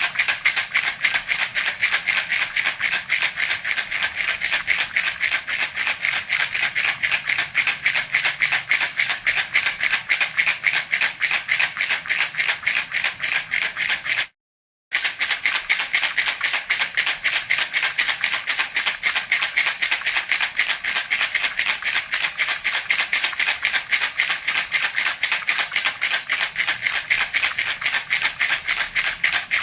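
Baby rattle (jhunjhuna) shaken in a rapid, even rhythm, its loose beads rattling. The shaking breaks off for about half a second halfway through, then resumes at the same pace.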